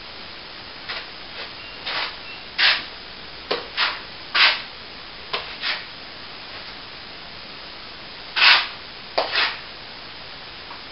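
About a dozen short scraping strokes of a hand plastering tool against a plaster wall, irregularly spaced, with a pause of a couple of seconds in the middle, over a steady faint hiss.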